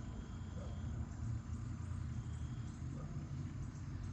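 Steady low rumble of outdoor background noise, with a faint short high chirp twice.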